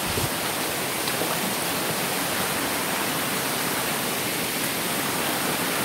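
Steady rushing roar of a waterfall, an even wash of water noise with no change in level.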